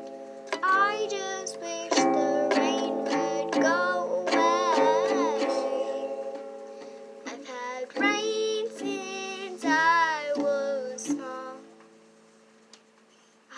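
A young voice singing over strummed plucked-string chords, the sung notes wavering and gliding. The music fades out near the end, leaving near quiet.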